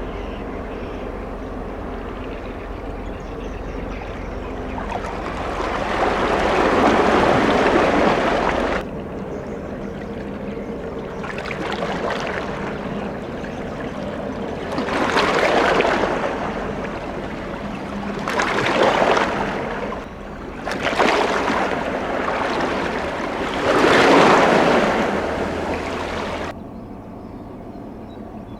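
Low steady hum of a passing ship, with several swells of rushing water-like noise that rise and fall, two of them cutting off suddenly.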